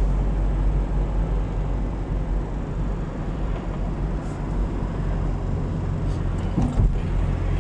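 Steady road noise inside a moving car's cabin: a low engine drone with tyre rumble, unchanging throughout.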